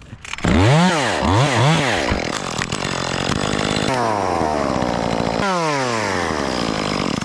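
Two-stroke chainsaw revved up and down three times, then held at full throttle cutting wood, its pitch sagging twice as the chain bites into the cut. It stops abruptly at the end.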